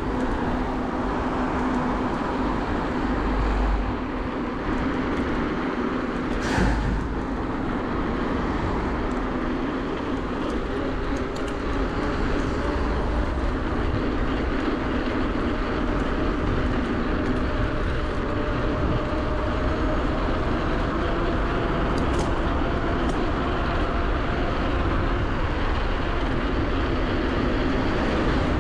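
Steady riding noise from an electric bike under way: wind and tyre rumble with a steady hum from the Bafang BBSHD mid-drive motor. A single knock about six seconds in.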